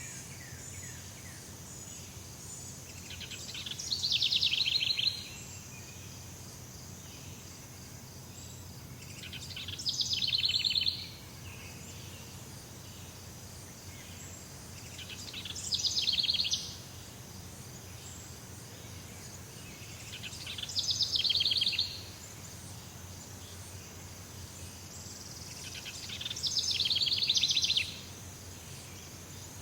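Jungle ambience: a bird calling in a rapid trill that swells over about a second and a half, then cuts off, five times about every five or six seconds, over a steady high insect drone.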